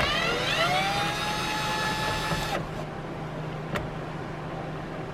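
Cordless power drill backing out a Phillips screw. Its whine rises as it spins up, runs steady for about two and a half seconds and stops, and a single click follows about a second later.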